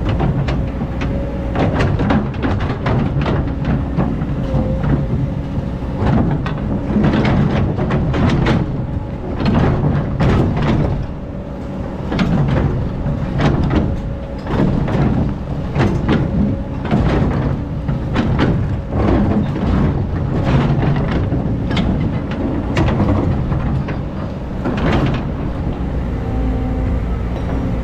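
Excavator working in sand: its diesel engine running steadily under load, with frequent irregular metallic clanks and knocks from the bucket and arm.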